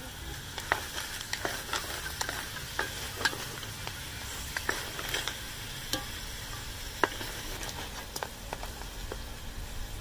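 Whole crabs and fish heads sizzling as they fry in a sofrito in a large pot, stirred with a plastic spatula, with irregular sharp clicks and knocks of shells against the spatula and pot. The crabs are being fried so they give their seafood flavour to the broth that follows.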